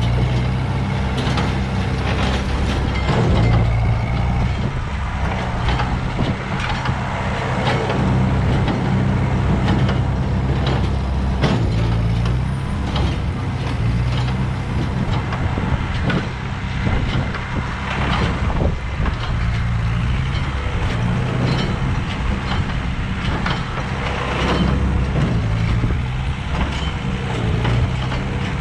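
Ford 8N tractor's four-cylinder gasoline engine running steadily under load, driving a Massey Ferguson No. 3 hay baler whose mechanism clatters with repeated knocks.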